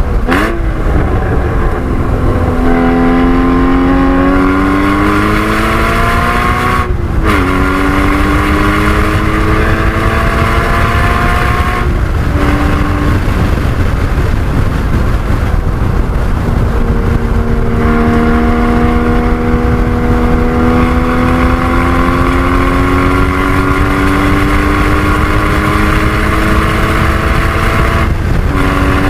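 Porsche 981 Cayman GT4's 3.8-litre flat-six under hard acceleration, its pitch climbing steadily for several seconds at a time and cutting off briefly at each gear change, about a quarter, two-fifths and nearly all the way through. Heavy road and wind noise runs underneath.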